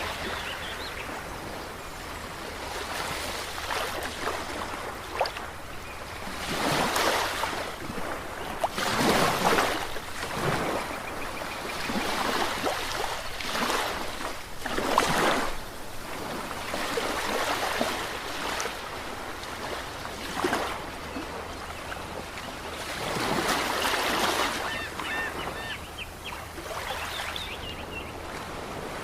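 Ocean waves breaking and washing in, a steady rush of surf that swells louder every few seconds.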